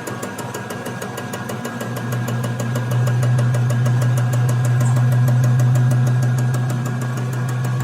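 A motor running steadily with a fast, even ticking, growing louder about three seconds in.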